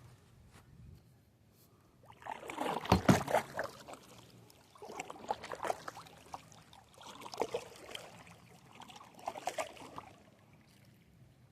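Paddle strokes in water, four of them about two seconds apart, each a splash followed by trickling drips.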